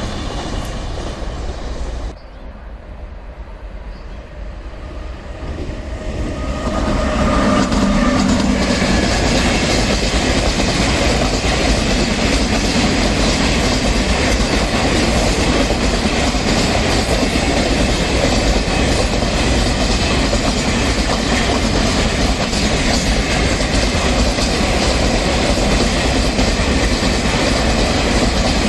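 Train running past on the tracks, its wheels clattering over the rail joints. The sound drops abruptly about two seconds in, then builds over a few seconds to a loud, steady noise that holds to the end.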